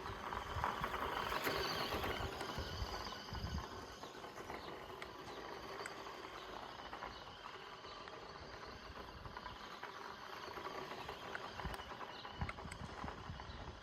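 1:14-scale Audi RS Q e-tron RC car driving over dirt, its tyres and chassis making a rough, crunching noise on loose ground with scattered small knocks. It is loudest for the first three or so seconds and then fainter, as if moving away.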